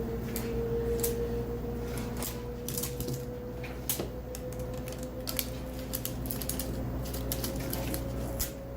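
Irregular small clicks and crackles of a plastic-wrapped LOL Surprise toy ball being handled and peeled open, over a steady hum that rises slowly in pitch.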